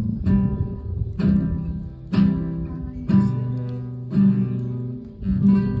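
Acoustic guitar being strummed, one chord about every second, each left to ring.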